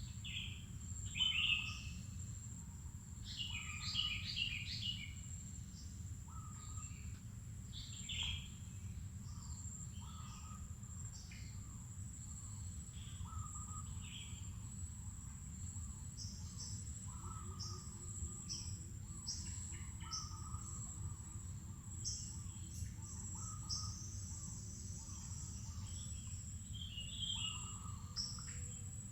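Wild birds chirping and calling in short phrases, loudest about a second in and again around four seconds in, over a continuous high-pitched insect drone and a low steady background rumble.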